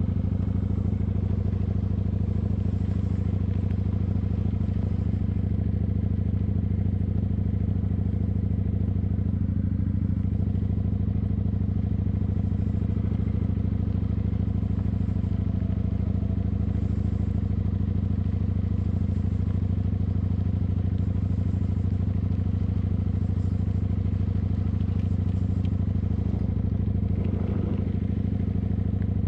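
Kawasaki motorcycle engine running steadily at an even idle, warming up after a cold start.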